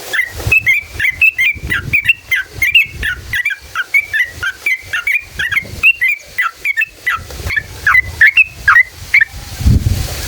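Trucukan (yellow-vented bulbul) singing a long, fast run of short chirping notes, about four or five a second, which stops near the end.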